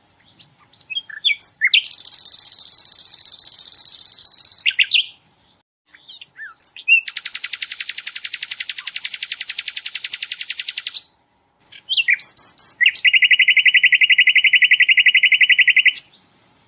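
Sikatan londo (an Indonesian flycatcher) singing three long, very rapid trills, the machine-gun-like 'tembakan' that songbird keepers prize, each lasting about three seconds and starting with a few short chirps. The first two trills are high and the last is clearly lower in pitch.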